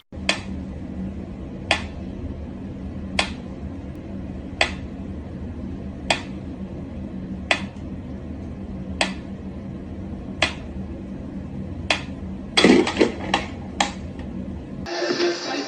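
Sharp clicks repeating evenly about every second and a half over a steady low hum, followed by a quick flurry of knocks a little before the end; music comes in near the end.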